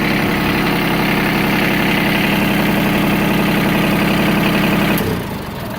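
Mitsubishi MT146D compact tractor's diesel engine running steadily, then dropping to a lower, quieter note about five seconds in.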